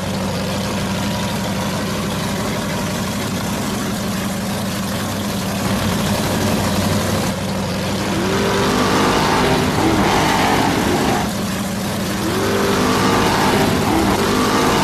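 An engine running steadily, then revving up twice in the second half, the pitch rising each time.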